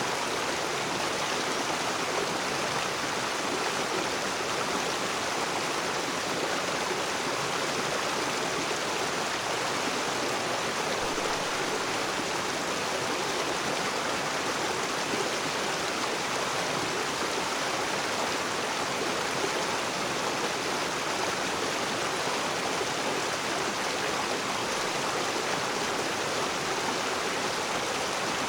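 Rocky river rushing and splashing over stones, a steady, even flow of water.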